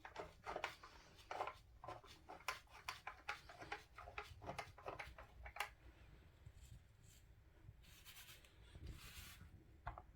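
Faint, quick scratchy strokes of colouring in a picture, about two a second, thinning out to a few faint scrapes after about six seconds.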